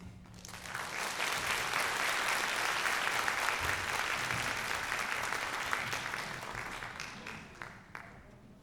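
Audience applauding, building up in the first second, holding steady, then dying away near the end.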